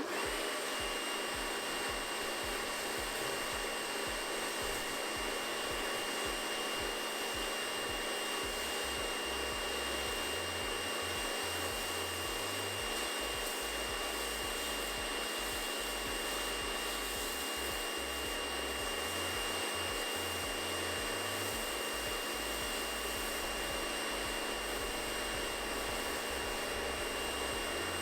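Kärcher K2 electric pressure washer running steadily while spraying snow foam through an FJ6 foam cannon at its highest flow setting: an even spray hiss with a steady high whine.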